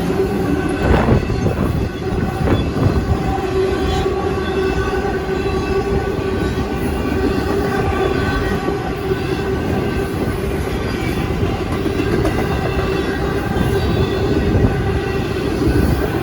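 Union Pacific freight train rolling past, a loud steady rumble of wheels and cars with a steady tone running through it.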